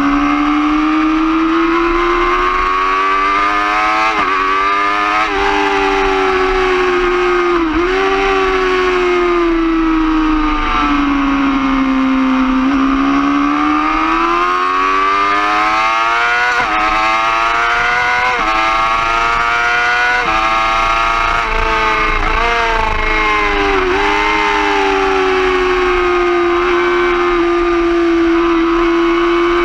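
Yamaha R6 inline-four sport-bike engine at high revs, heard from on board. Its pitch climbs and falls as the throttle opens and closes, with several brief sudden dips at quick gear changes.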